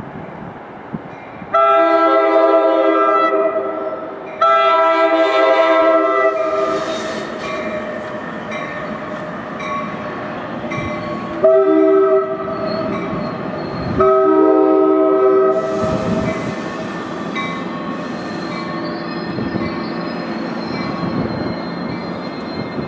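Locomotive air horn sounding the grade-crossing signal, two long blasts, a short one and a long one, over the steady rumble of the moving train.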